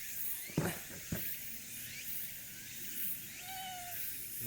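A cat gives one short meow about three and a half seconds in, after two sharp knocks near the first second, over a steady high hiss.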